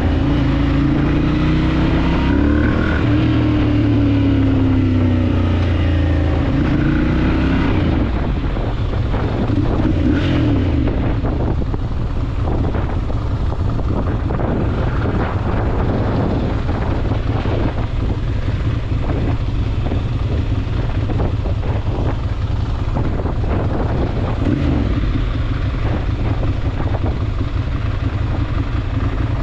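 Ducati Monster 796's air-cooled L-twin engine, its pitch rising and falling as it revs for the first several seconds. About eight seconds in it drops to a lower, uneven, pulsing run, as at idle or low speed, with some wind on the microphone.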